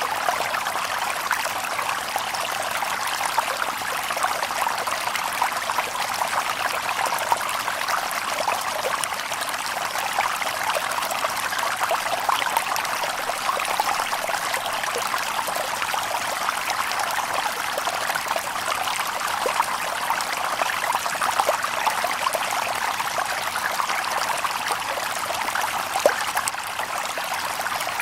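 A shallow stream babbling over stones, a steady rush of water with fine splashing and trickling throughout.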